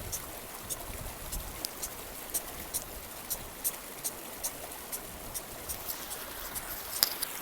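Mountain river flowing with a steady rush, overlaid by a string of short, sharp high clicks, about two or three a second, the loudest about seven seconds in.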